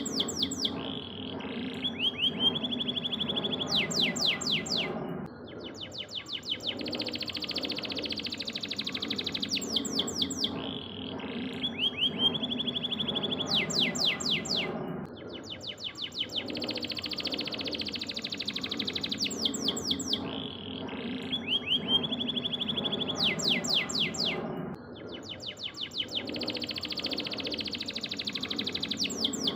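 Domestic canary singing long, varied song: fast trills and rapid runs of repeated high notes, the same sequence of phrases coming round about every ten seconds, over a steady low hum.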